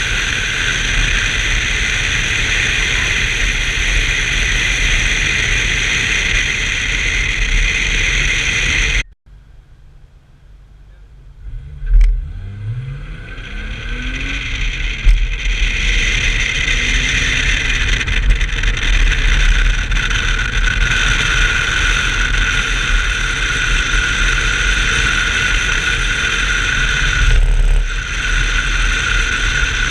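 1990 BMW 325i's straight-six engine running hard at speed, heard from inside the car with loud wind and road noise. It cuts off suddenly about nine seconds in; after a short quieter spell the engine revs up with a rising pitch and the car is soon running at full speed again.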